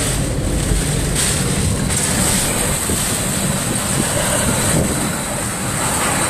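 Hurricane-force wind and driving rain battering a car, heard from inside the cabin as a loud, steady rush.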